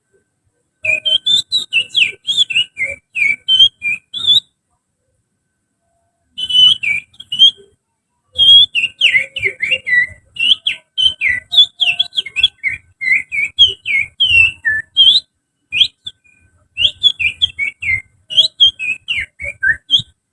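A person whistles through the fingers in imitation of an oriental magpie-robin's song: quick runs of varied chirps and warbling notes in several bouts, with a pause of about two seconds after the first four seconds.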